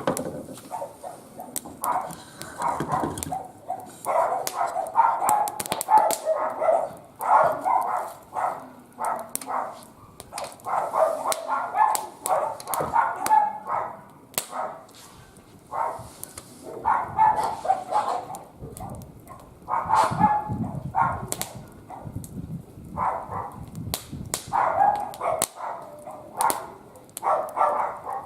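A dog vocalizing in repeated short bouts every second or two, over sharp crackles from a wood fire burning in a barbecue grill.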